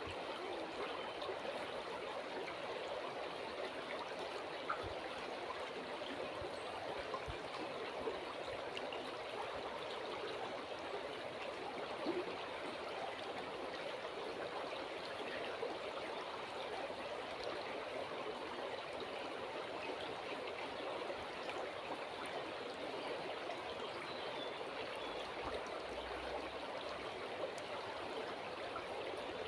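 River water flowing steadily: a continuous, even babble with a few brief louder splashes.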